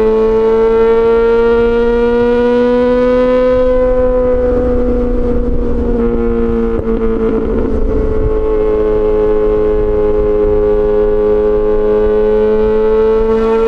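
Yamaha XJ6 S inline-four engine through an SC-Project exhaust, running at steady cruising revs; the pitch climbs gently, eases off about four seconds in and then holds steady, with a rougher stretch in the middle.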